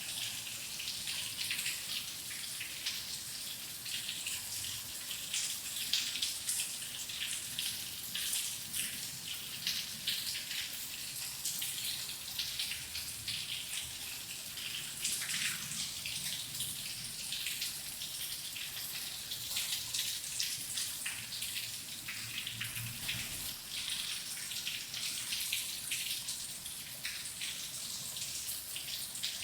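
Steady rain falling, a dense crackling patter of many small drops with no pauses.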